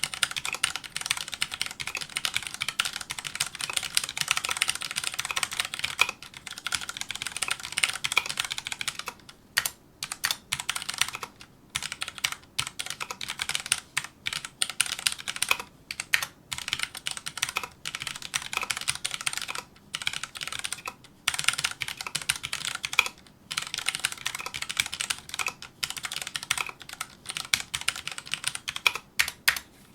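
Fast touch typing on a Filco Majestouch2 mechanical keyboard with Cherry MX Brown switches: a dense, rapid run of key clacks, broken by several short pauses between bursts.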